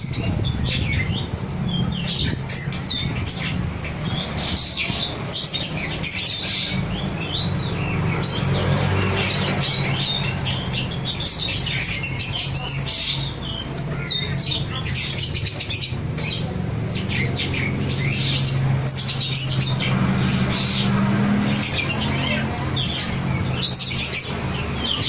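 Black-winged myna (jalak putih) calling and singing without pause in quick chirps and harsh squawks, over a steady low hum.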